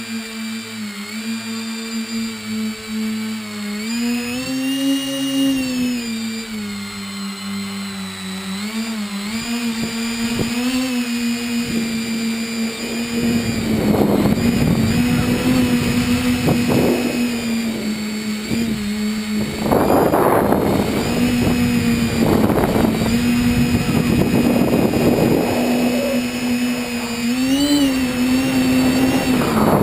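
Tricopter's three brushless electric motors and propellers buzzing, the pitch rising and falling as the throttle changes. From about halfway through, gusts of rushing air noise come in on top of the buzz.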